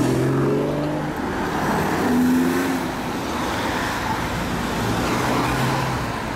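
Car engines running in street traffic, one climbing in pitch as it accelerates in the first second, with further engine notes passing over a steady rumble of road noise.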